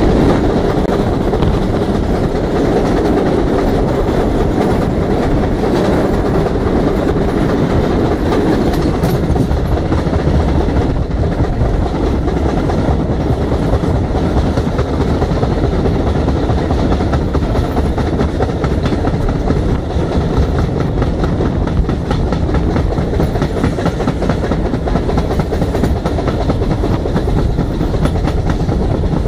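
Steam-hauled passenger train running at speed, heard from an open carriage window: a loud, steady rumble of wheels on the rails.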